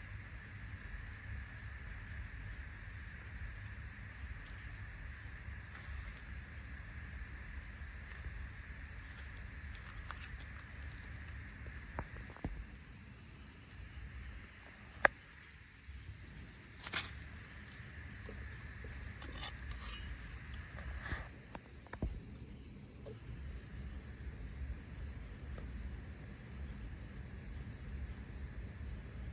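Steady high chirring of insects, typical of crickets, over a low rumble, with a few sharp clicks scattered through the middle, the loudest about halfway.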